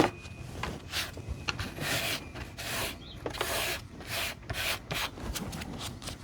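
Irregular rubbing and scraping strokes, one every half second or so with a few longer scrapes, from cylindrical battery cells being handled and pushed together on the work surface.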